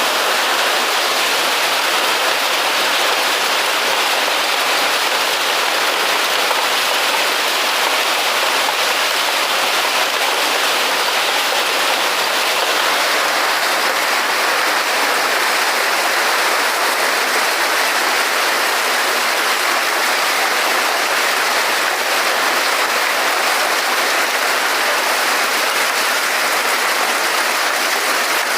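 Heavy rain mixed with hail pelting down in a dense, steady hiss.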